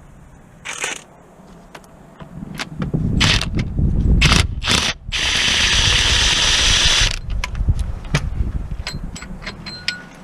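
Mechanic's tool work on a car: clanks and knocks, then a power tool running for about two seconds, followed by light clicks.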